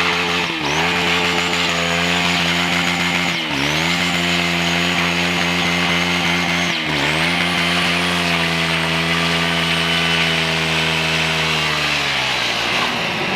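Sport motorcycle engine held at high revs, shifting up three times with a quick dip and recovery at each shift, then the revs ease off near the end.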